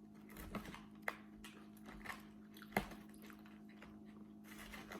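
A person chewing food close to the microphone, with a few short, sharp mouth clicks, over a steady low hum.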